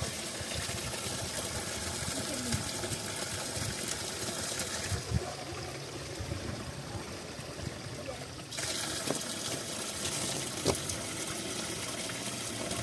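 Steady rush of running spring water, with scattered low knocks and thumps. The rushing thins for a few seconds in the middle and comes back suddenly.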